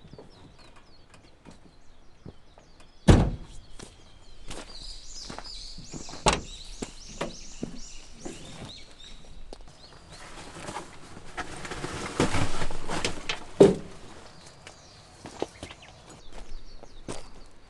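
Objects being handled: two sharp thuds with scattered clicks and knocks, and a stretch of rustling from about ten to fourteen seconds in. Birds chirp in a quick run early on.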